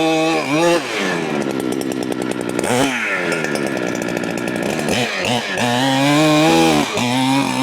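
Large Holzfforma clone chainsaw at full throttle in white oak. It holds a steady high pitch, then drops in pitch under load from about one second in as it cuts. About five seconds in it revs back up and holds a steady high pitch, running free.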